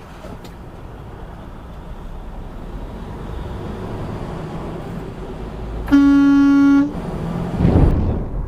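A car horn sounding one steady blast of about a second, over the steady rumble of road and engine noise. A loud low rush of noise follows shortly after.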